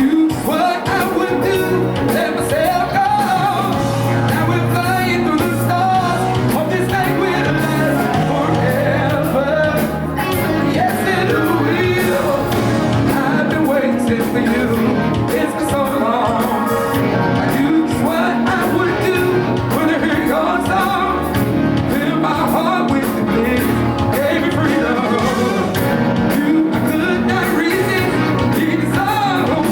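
Live band playing a song with drums, bass and keyboards, a woman singing lead over it.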